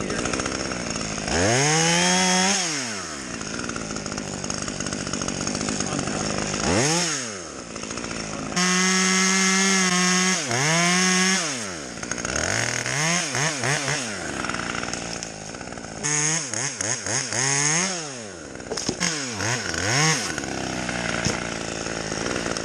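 Chainsaw revving up and down in repeated bursts as it cuts wood. It is held at full speed for about three seconds in the middle, and between cuts it drops back toward idle.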